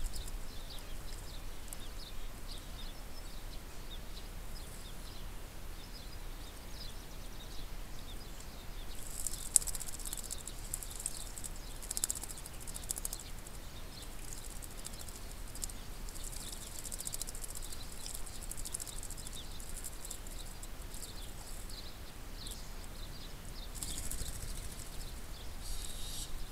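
Garden birds chirping over and over in short high notes, with spells of dense, rapid, very high trilling about a third of the way in and again near the end.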